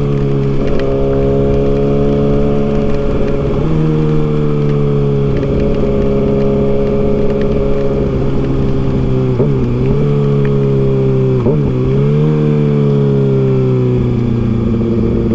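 2023 Kawasaki ZX-6R's inline-four engine running at steady cruising speed. Its pitch steps up about a second in and dips briefly twice in the second half as the throttle is eased and reopened, over a steady rush of wind and wet-road noise.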